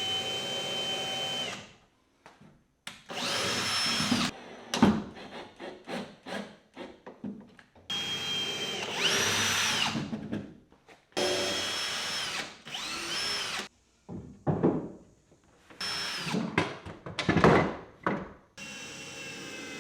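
Cordless drill driving screws into wood in a series of short runs, its motor whine rising in pitch as each run spins up. Knocks and clatter of handling the pieces come between the runs.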